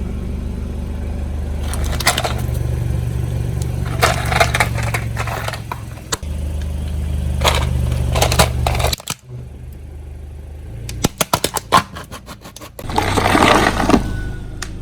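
A car's engine running low while its tyre rolls over objects and crushes them: several bouts of crunching and cracking, a rapid run of small cracks about eleven seconds in, and a loud crunch near the end.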